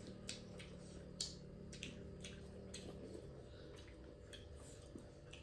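Faint, irregular wet clicks and smacks of someone eating: chewing and mouth sounds, about one every half second.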